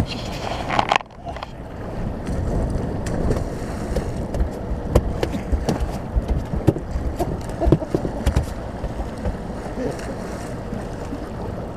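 Small boat on the water with a steady low rumble of motor, water and wind, broken by scattered sharp knocks.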